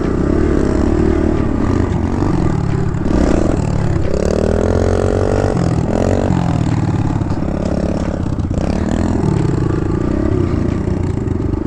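Kawasaki KLX110 dirt bike's small single-cylinder four-stroke engine running under throttle, its pitch rising and falling as the revs go up and back down several times.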